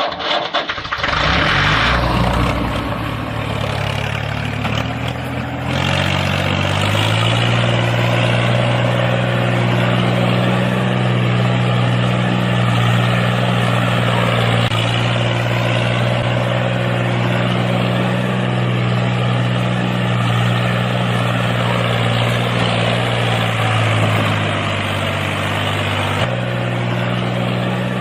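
A motor humming steadily. It climbs in pitch a few seconds in, holds, and drops back down near the end.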